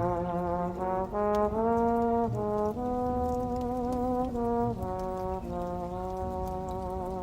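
Old jazz recording with a brass lead, trombone-like, playing a slow melody of held notes with vibrato, muffled as if heard from another room, over a faint crackle of a fireplace.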